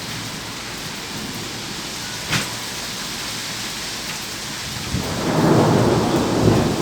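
Steady rain hissing, with a sharp tick a little over two seconds in. About five seconds in, a low peal of thunder rumbles up and becomes the loudest sound.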